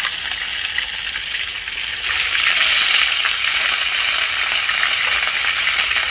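Dumplings frying in hot pork fat in a frying pan: a steady sizzling hiss that grows louder about two seconds in.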